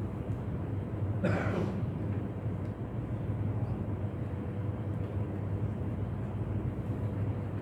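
Steady low hum of the mosque's room and sound system during a pause, with a brief louder sound about a second in.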